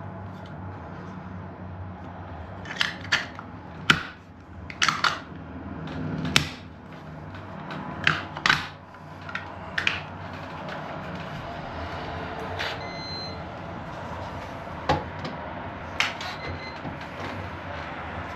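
Irregular sharp clicks and knocks of a keypad deadbolt and its door hardware being handled and fitted, about a dozen, most in the first half. Two short high tones sound later on.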